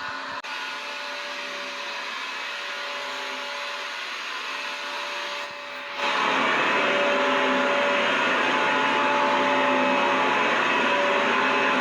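Vacuum cleaner motor running steadily, a dense rushing hiss with a steady whine in it. About halfway through it dips for a moment and comes back louder and fuller.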